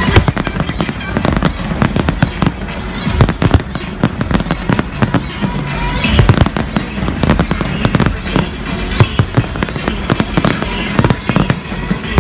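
Fireworks display: a dense, irregular barrage of sharp bangs and crackles, several a second, with music playing underneath.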